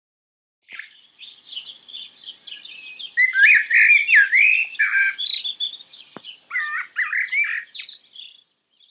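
Songbirds chirping and singing in quick, varied high-pitched twittering phrases, starting about a second in.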